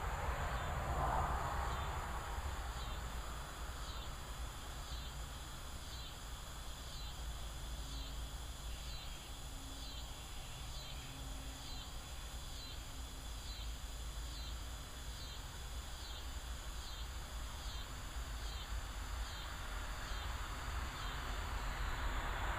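Evening insects calling: a rhythmic pulsed chirp repeating a little more than once a second over a steady high-pitched insect drone. Underneath is a low rumbling background that swells near the start and again near the end.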